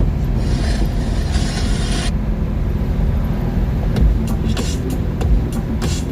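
Deep, steady exhaust rumble of a 1978 Chevrolet Malibu's 383 stroker V8 on the move, with a hiss over it for the first two seconds.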